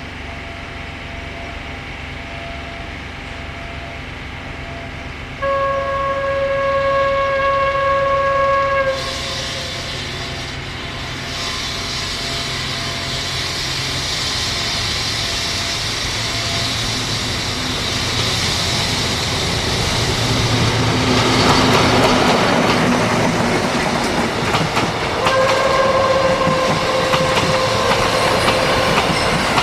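Freight train passing with its locomotive running. The locomotive sounds two long horn blasts, one about five seconds in and another near the end. Between them the wagons' wheels rumble and clatter over the rail joints.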